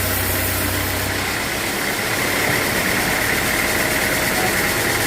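Sawmill machinery running steadily. A low hum drops out about a second in, and a higher whine grows stronger after that.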